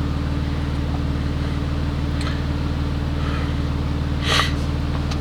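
Car engine idling steadily, with a short sharp breath or sniff near the microphone about four seconds in.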